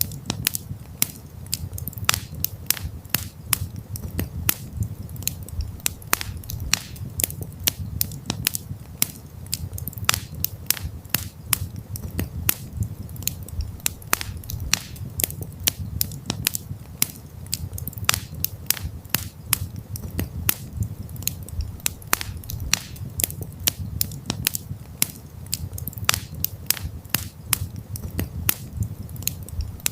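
Wood campfire crackling: irregular sharp pops and snaps, several a second, over a low steady rumble of the fire.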